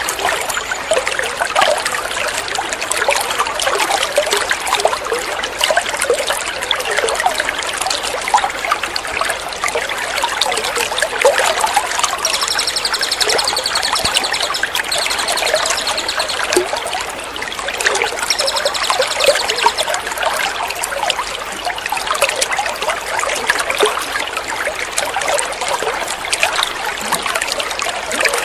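Trickling running water, steady throughout. Over it, a small songbird gives a high, rapid trill twice, for a few seconds each time, about twelve and eighteen seconds in.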